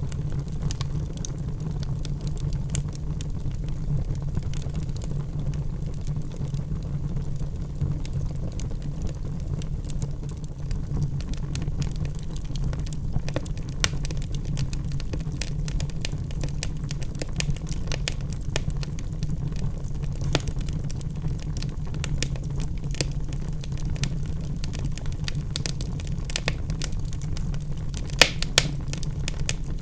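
Logs burning in a fireplace: a steady low rumble of the flames with frequent sharp crackles and pops, and a few louder pops near the end.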